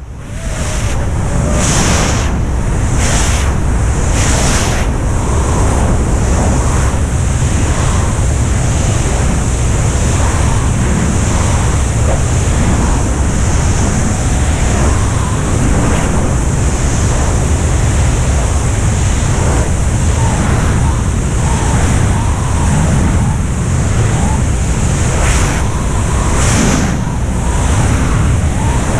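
Jump plane in flight: its engine drone and rushing wind make a loud, steady roar, with wind buffeting the microphone.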